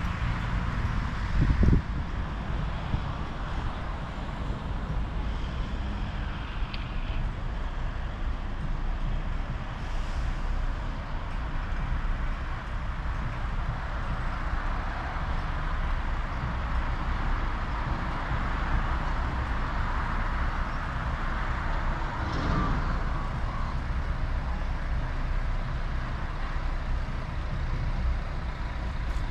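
Road traffic noise and a steady low rumble heard from a moving mountain bike, with a single thump just under two seconds in.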